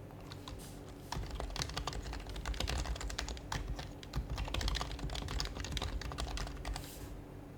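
Fast typing on an HHKB Professional HYBRID Type-S keyboard with silenced Topre switches: a dense run of keystrokes that starts just after the beginning, picks up about a second in and stops shortly before the end.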